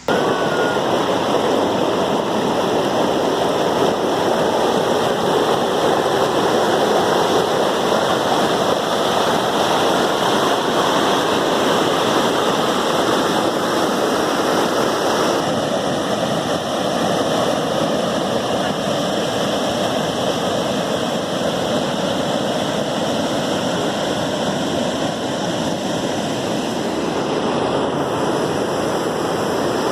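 River in spate after heavy rain, water rushing loudly and steadily; the sound shifts slightly about halfway through.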